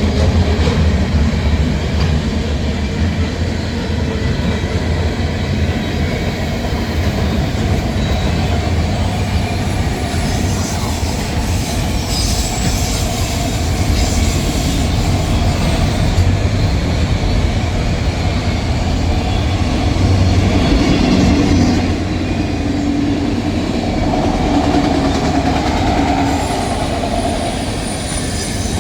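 Freight train cars rolling past on the rails: a steady, loud rumble of wheels on track, with a faint high wheel squeal near the end.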